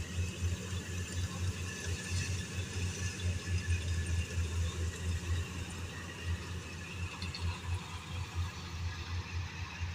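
Combine harvester running steadily, a deep low drone with a haze of machine noise above it.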